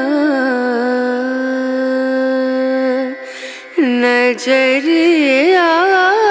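Background music: a solo voice sings one long held note, then wavering, ornamented phrases from about four seconds in.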